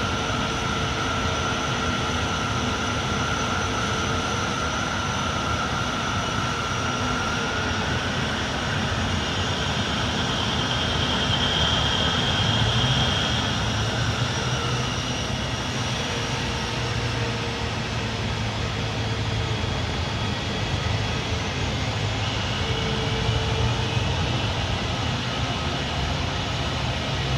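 Airliner engines running steadily, a constant rush with a high whine whose pitch drifts slightly, swelling a little about halfway through.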